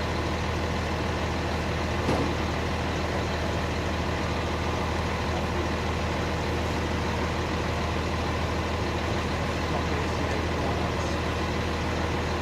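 Truck engine idling steadily, with a single short knock about two seconds in.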